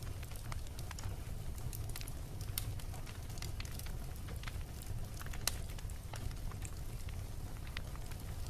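Bonfire crackling, with irregular sharp pops and snaps scattered through, over a steady low rumble.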